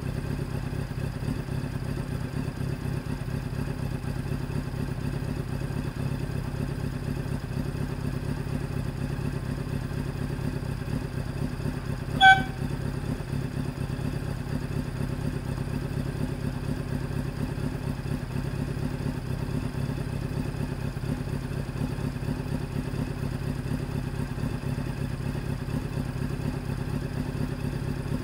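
A Honda CBR900RR Fireblade's inline-four engine idling steadily, with one short, loud, high-pitched tone about halfway through.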